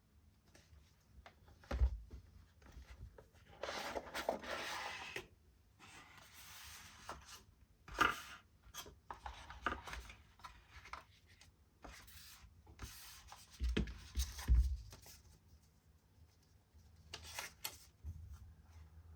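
Packaging of a Wera Tool-Check Plus bit set being handled and opened: stretches of rubbing and scraping, with a few sharp knocks and clicks in between.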